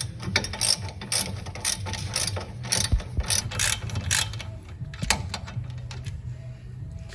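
Hand ratchet wrench clicking in irregular runs as a nut on the car's front suspension, already broken loose, is wound off.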